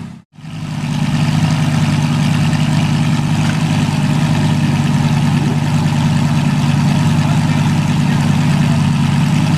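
Exotic sports car engine idling steadily, a smooth even burble with no revving. The sound cuts out for a split second just after the start.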